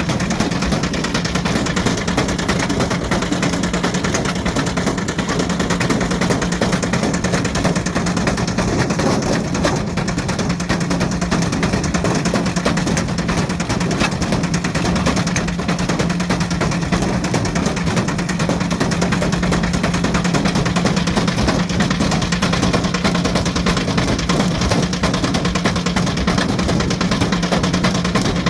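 Ariston Margherita washing machine running with a brick inside its drum: a steady motor and drum hum under a continuous, rapid rattling and hammering of the brick against the drum.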